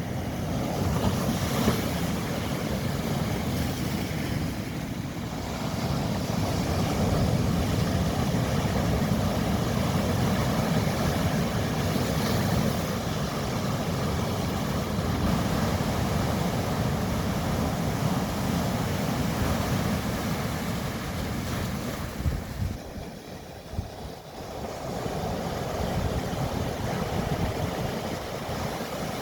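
Mediterranean sea surf: waves washing in as a steady rushing noise, easing into a lull about three quarters of the way through before the next wave builds.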